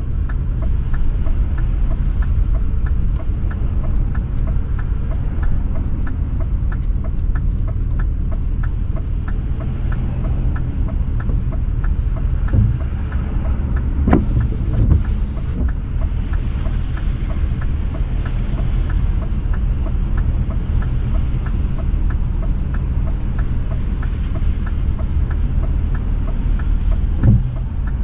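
BMW E39 540i's 4.4-litre V8 running as the car drives, a steady low rumble from the engine and exhaust, with a few brief thumps a little past halfway and again near the end.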